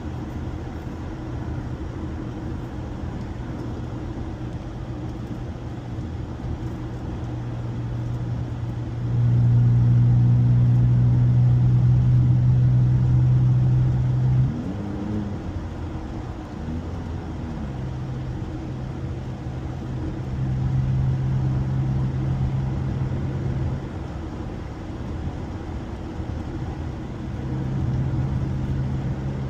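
Honda car engine and road noise while driving: a steady low engine drone that swells louder for about five seconds near the middle, then drops with a brief rise and fall in pitch, and swells again twice later on.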